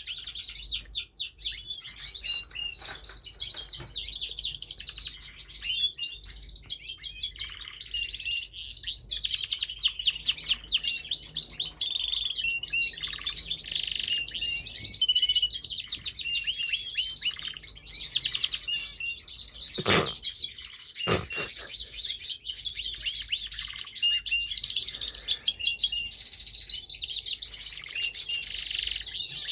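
Male domestic canary singing a long, unbroken song of rapid trills and warbling chirps. Two short knocks sound about two-thirds of the way through.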